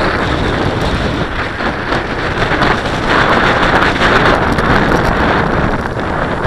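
Strong gusting wind buffeting the microphone, a loud rushing roar that swells about three seconds in and eases again.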